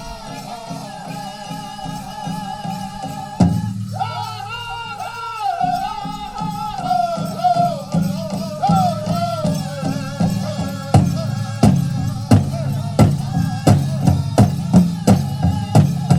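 Powwow drum group singing a chicken dance song in high voices over a big hand drum. About eleven seconds in the drumbeats turn loud and separate, and they come quicker toward the end.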